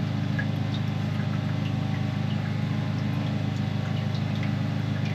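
Engine of a drain-clearing rig running steadily at a constant speed.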